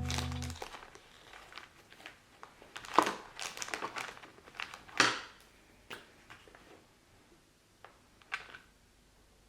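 Crinkling and rustling handling noises, with two louder sharp knocks about three and five seconds in and a few lighter taps later.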